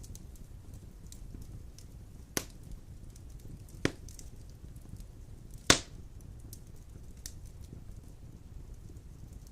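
Large logs burning in a fireplace: a low steady rumble of flame with faint crackling and three sharp pops, the last and loudest a little past halfway.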